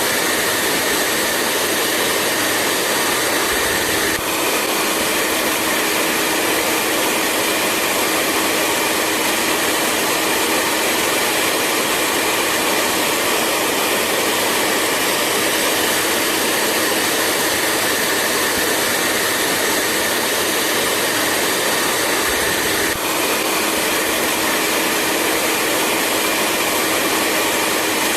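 Hair dryer running steadily: a continuous rushing of air over a low motor hum and a higher whine. The sound dips briefly twice, about four seconds in and again later, where the whine shifts slightly in pitch.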